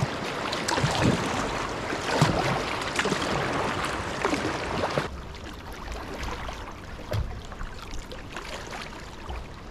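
Moving river water with the splashing of kayak paddle strokes. The rushing is louder for about the first five seconds, then drops off abruptly to a quieter flow.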